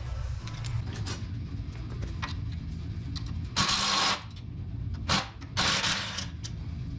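A ratchet wrench working the nuts off the ATV's rear hitch: a few short bursts of ratcheting, each about half a second, in the second half, over a steady low hum.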